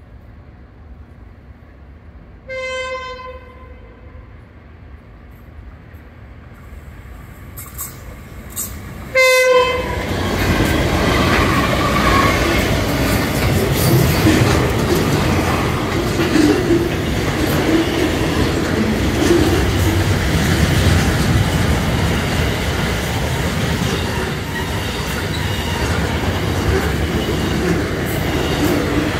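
A diesel freight train's horn sounds one blast of about a second, falling slightly in pitch, about three seconds in, and a short second blast about nine seconds in as the train closes in. Then the loud, steady noise of a long freight train passing close by, its wagons' wheels running over the rails.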